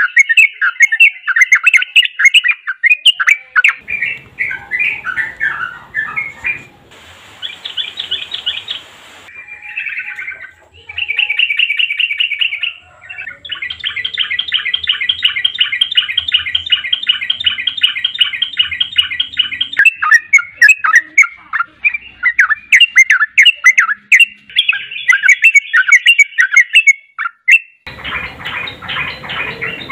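Yellow-vented bulbuls singing: loud bursts of quick chattering notes, with a long, fast, evenly paced trill in the middle.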